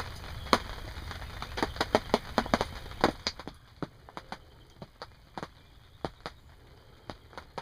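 Raindrops tapping on a fabric ground blind: irregular sharp taps, several a second, over a low steady hiss. About three and a half seconds in the hiss drops away and the taps come softer and sparser.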